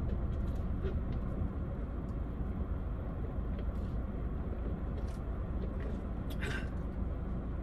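Steady low rumble of a parked car's idling engine, heard from inside the cabin, with one brief breathy sound about six and a half seconds in.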